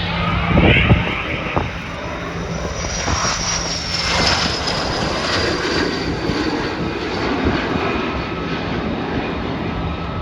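Aircraft engine noise as a military plane flies past, with a high whine falling slowly in pitch through the middle.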